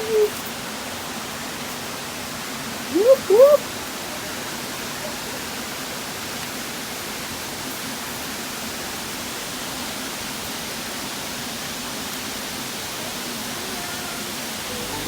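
Waterfall rushing: a steady, even hiss of falling water. About three seconds in, two short rising calls cut briefly through it.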